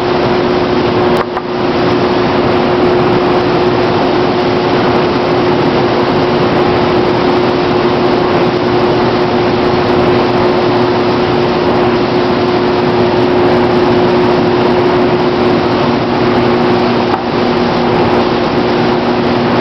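Tornado 60.70 airless paint sprayer running: a loud, steady spray hiss over a steady hum, dipping briefly about a second in and again near the end.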